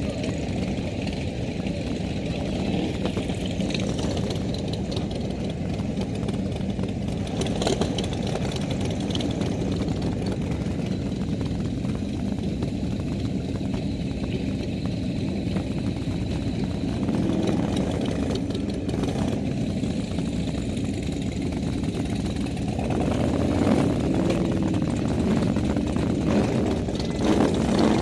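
Motorcycle engines running steadily, growing a little louder over the last few seconds.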